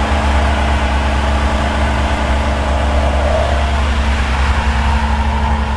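A motor vehicle's engine running steadily with a low, even rumble, with no clear revving.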